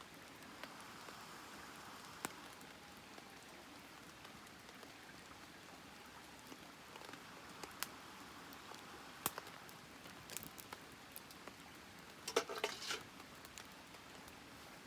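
Wood campfire burning with a soft hiss and scattered sharp crackles and pops, with a quick flurry of crackling about twelve seconds in.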